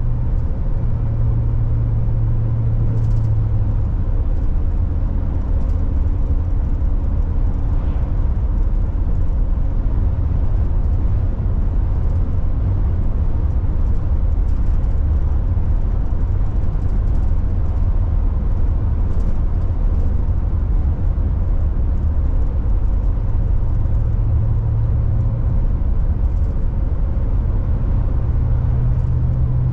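Car interior road noise while driving: a steady low rumble of engine and tyres, with a hum that fades a few seconds in and returns near the end.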